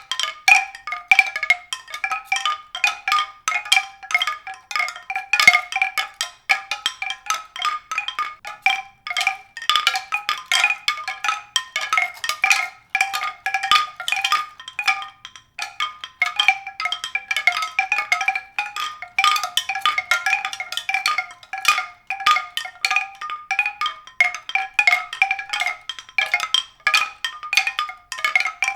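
Mallet-struck tones: many quick, irregular strikes ringing on a small set of fixed pitches, with no bass and no steady beat.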